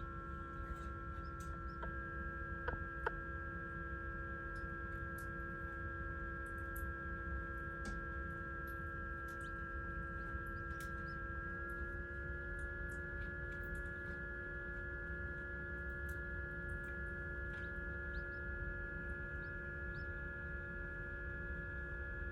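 Steady electrical hum of several tones that steps up slightly in pitch about halfway through. Faint short high peeps sit over it, and two sharp clicks come about three seconds in.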